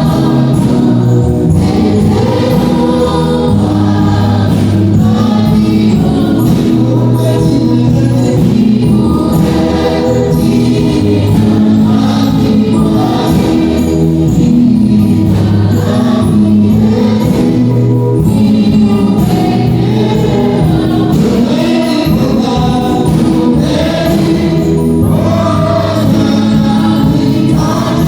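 A choir singing gospel music, loud and continuous.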